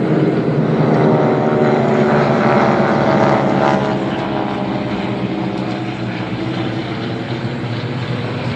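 Restored propeller-driven aircraft flying low overhead with a steady piston-engine drone. The drone is loudest about one to four seconds in, then slowly fades as the aircraft move away.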